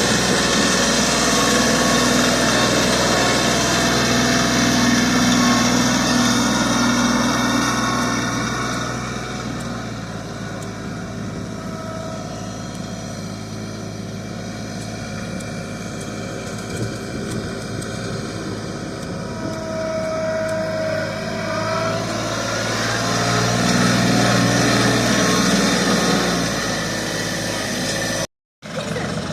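Tractor engine running steadily, louder for the first several seconds and again near the end, with a brief cut to silence just before the end.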